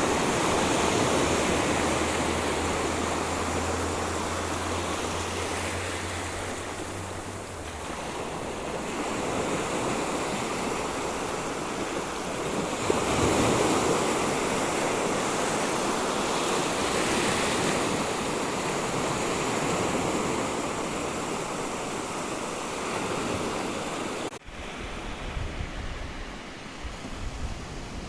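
Sea surf washing on a beach, the wash of the waves swelling and fading every few seconds. A low steady hum runs under it for the first seven seconds or so, and near the end the sound suddenly turns duller with low rumbling.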